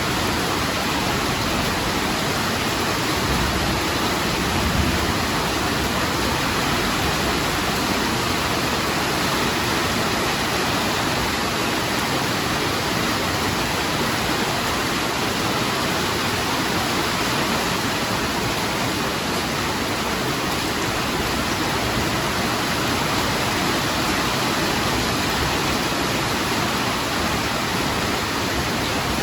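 Heavy rain falling steadily as a dense, even hiss, with a brief low rumble about five seconds in.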